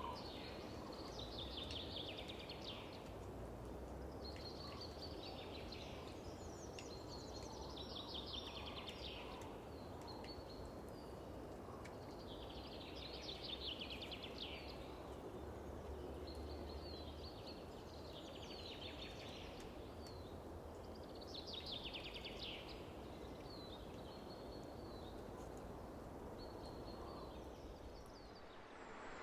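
A songbird singing short phrases of rapid notes, one every two to three seconds, over a steady low background of field ambience.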